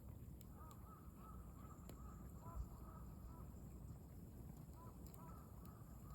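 A bird calling in two quick runs of short, arched notes, over faint, sparse crackling of a wood campfire and a low rumble. A single low thump comes about two and a half seconds in.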